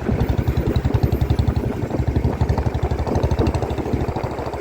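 Motorcycle engine running steadily, with a rapid, even low throb.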